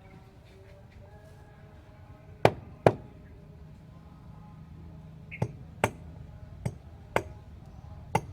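Seven sharp, hard strikes in an irregular rhythm, the first two loudest.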